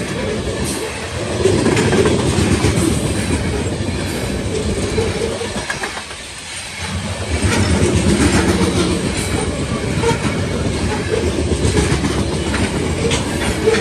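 Freight train of ethanol tank cars rolling past, steel wheels clattering over the rail joints with a steady rumble that swells and eases as the car trucks go by, dipping briefly about halfway through.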